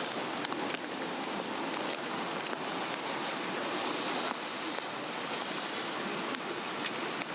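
Swedish torch, a Japanese cedar log burning from its cross-cut slots, with a steady rush of flame and scattered crackles and pops.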